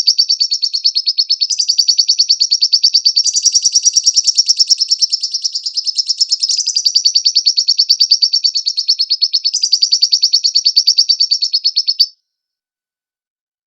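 Lovebird's long, rapid chattering trill: a fast, even run of high notes, about eight a second, stepping slightly in pitch every few seconds, then cutting off abruptly near the end.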